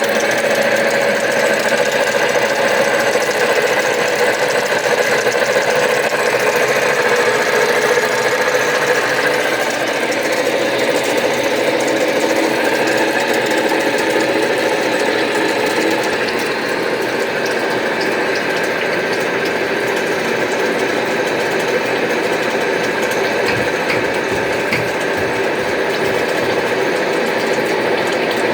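Headstock gearbox of an Arad SNA500x1000 metal lathe running steadily, its spindle gears turning.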